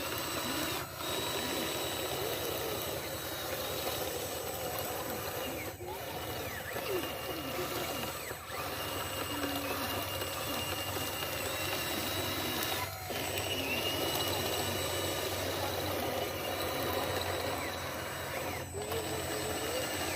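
Small electric motors of radio-controlled construction models running with a high whine that shifts in pitch now and then, over a busy background. There are several short breaks.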